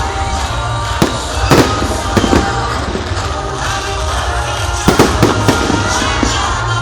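Aerial fireworks bursting in a series of sharp bangs, the loudest about five seconds in, over loud music playing.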